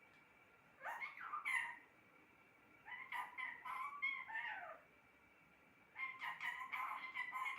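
Pet parrot calling in three bouts of short, pitch-sliding vocalisations: one about a second in, a longer one around the middle, and another near the end.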